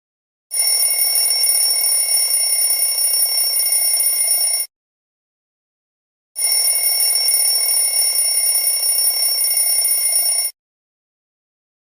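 Alarm-clock bell ringing, played as a phone alarm tone: two bursts of about four seconds each, with a pause of under two seconds between them.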